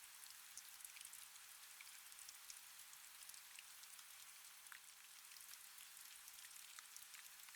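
Faint, steady rain: an even hiss with many scattered sharp drop ticks.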